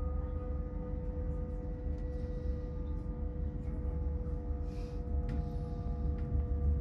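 Cabin noise of a Hitachi Class 800 bi-mode train running at speed: a steady low rumble with an unchanging hum of several held tones and occasional faint clicks.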